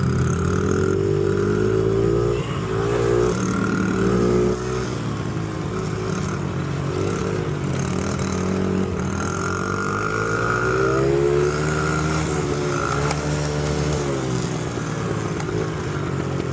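Small dirt bike engine running, its pitch rising and falling as the throttle is opened and eased off.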